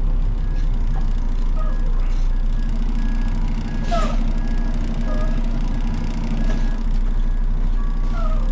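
Truck engine running steadily while the truck is maneuvered, with faint short beeps repeating at an even pace and a brief sharp chirp about four seconds in.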